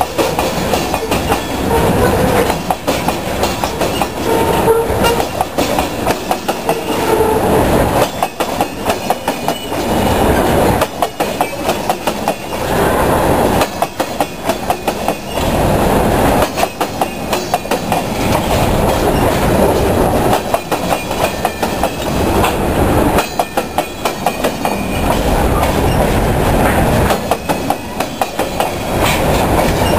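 Freight cars (covered hoppers and tank cars) rolling past at close range: a steady rumble of steel wheels on rail, with repeated clickety-clack as the wheel sets cross the rail joints.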